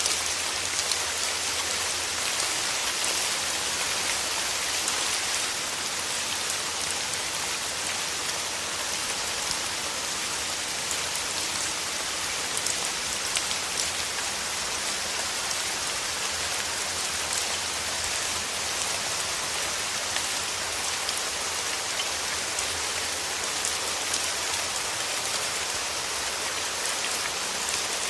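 Steady rain with a dense, even patter of raindrops and many fine drop ticks.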